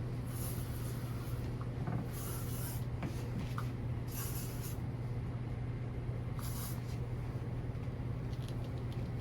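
OxiClean cleaner sprayed from a spray bottle onto a washing machine: four short hissing squirts about two seconds apart, over a steady low hum.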